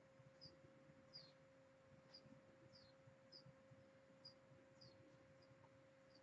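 Near silence: a steady low hum, with faint, short high chirps repeating about every two-thirds of a second.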